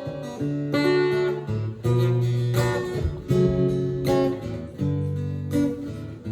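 Acoustic guitar playing an instrumental passage of strummed chords, with a fresh chord struck roughly every second and no singing.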